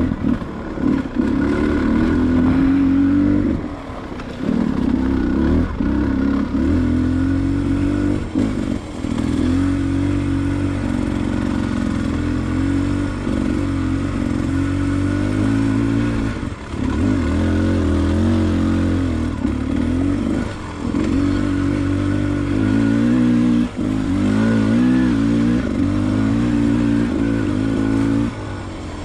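Beta 300 RR two-stroke enduro motorcycle engine revving up and down under load on a steep dirt climb, the throttle opened and cut again and again, with short dips in level between pulls.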